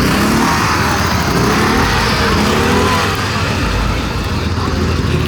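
Motor vehicle running with a steady low rumble, with indistinct voices in the background.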